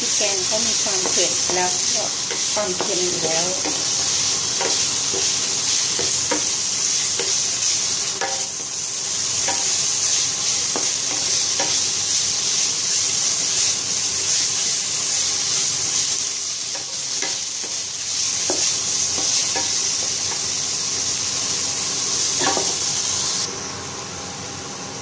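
Minced pork and curry paste sizzling as they dry-fry in a pan, with a spatula stirring and scraping, heard as a steady high hiss dotted with short clicks. The sizzle drops off abruptly near the end.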